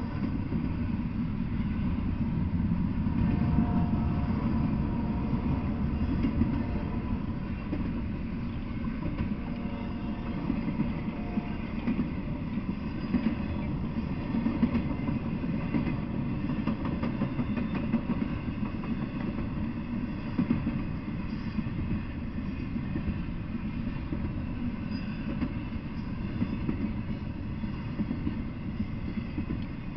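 Intermodal freight train of double-stacked containers and trailers on flatcars rolling past: a steady rumble and rattle of steel wheels on the rails, with a few short louder knocks.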